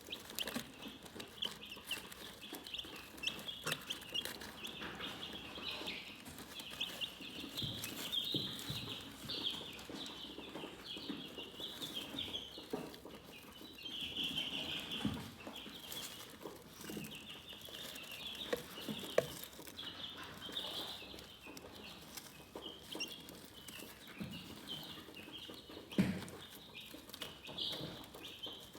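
A flock of chickens chirping continuously in a high, busy chorus, with occasional lower clucks and a couple of sharp taps.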